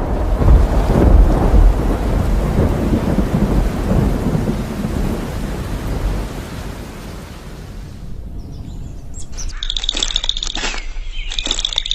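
A long, deep rumble of thunder slowly fading away, then birds chirping in repeated short calls near the end.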